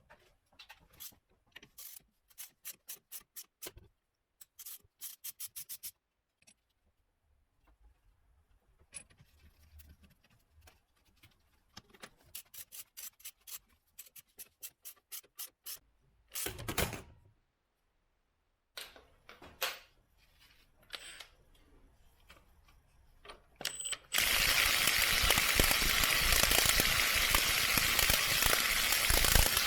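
Hand ratchet wrench clicking in quick runs of strokes, with pauses between runs. About two-thirds of the way in comes a short loud rushing burst, and for the last few seconds a loud steady rushing noise takes over.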